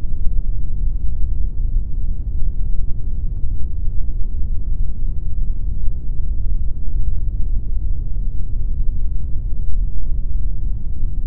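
Steady pink noise: a constant, even rush weighted heavily toward the low end, with little treble and no changes.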